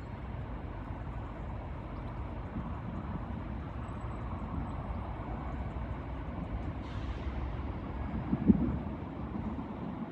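Class 170 Turbostar diesel multiple unit running into the station, a steady rumble with one short, sharp sound near the end.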